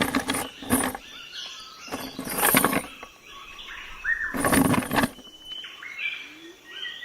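Birds chirping with short calls and rising whistles, among four short, loud bursts of rustling noise.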